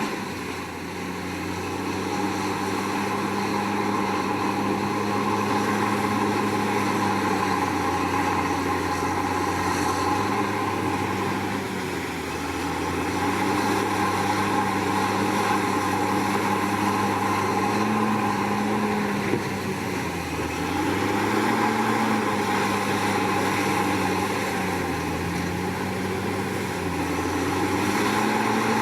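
Komatsu D61PX bulldozer's diesel engine running steadily while working, its pitch rising briefly a few times past the middle and near the end, with a steady higher whine alongside.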